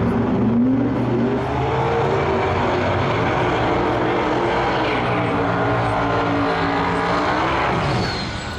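Two small-tire drag cars, one a twin-turbo Chevy Nova, launching side by side and running at full throttle, the engine note rising in pitch as they accelerate. The sound falls away near the end.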